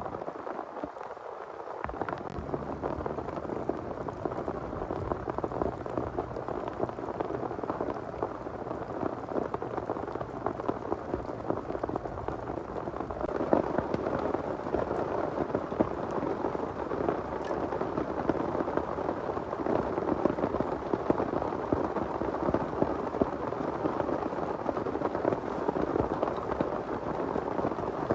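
Heavy rain falling, a dense steady stream of drops striking a surface, growing somewhat heavier about halfway through.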